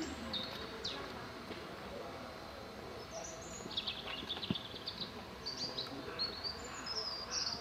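Birds chirping in short quick runs of high notes from about three seconds in, over a steady outdoor background hum.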